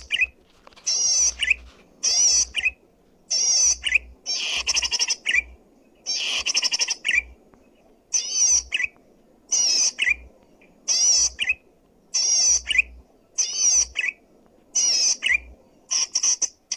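Zitting cisticola (cici padi) singing loudly. Rapid, high-pitched chattering bursts repeat about once a second, a few of them longer and fuller.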